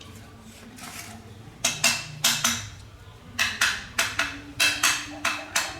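Metal being struck repeatedly during workshop repair: about ten sharp knocks in uneven groups, starting about a second and a half in, each ringing briefly.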